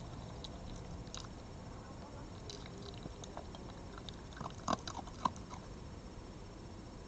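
An animal chewing and crunching food, heard as scattered small clicks and crunches, loudest for about a second just past the middle.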